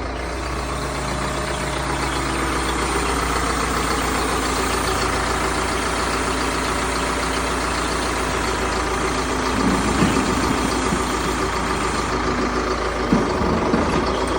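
A heavy vehicle's engine idling steadily, with a few short louder knocks about two-thirds of the way through and near the end.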